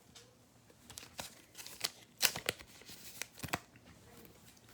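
Trading cards and foil pack wrapping being handled: a scattered run of short crinkles, snaps and taps, thickest in the middle.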